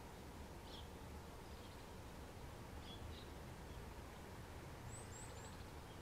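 Small songbirds calling faintly: a couple of short chirps, then three quick high, falling notes near the end, over a low steady background hum.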